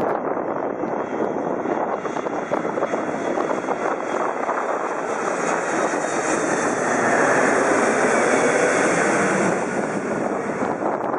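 Jet airliner passing low overhead, its engines a steady rushing roar that swells to a peak about seven to nine seconds in and then eases.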